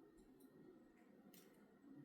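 Near silence: faint room tone with two or three brief, faint high clicks.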